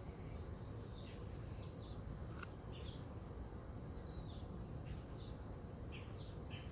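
Small birds chirping in short, scattered calls over a steady low hum, with one sharp click about two and a half seconds in.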